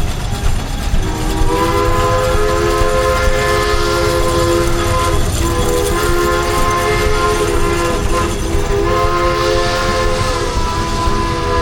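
Chime steam whistle sounding a chord of several notes at once, in three long blasts with short breaks between them, over a steady low rumble.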